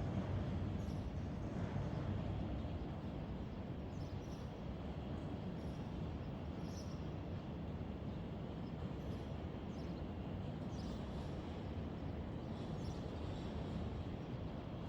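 Steady low rumble of city vehicle noise, with faint short high sounds now and then.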